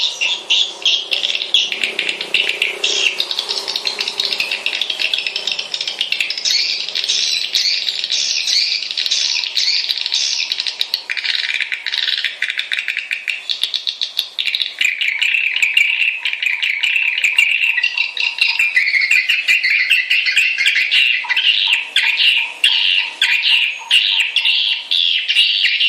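Swiftlet calls played as a lure and roosting call: an unbroken, dense stream of rapid high-pitched chirps and twitters.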